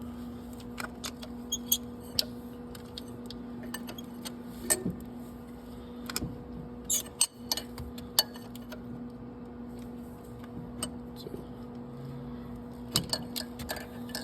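Scattered, irregular metallic clicks and clinks of a wrench turning a nut welded onto a broken exhaust manifold bolt as the bolt is worked out, over a steady low hum.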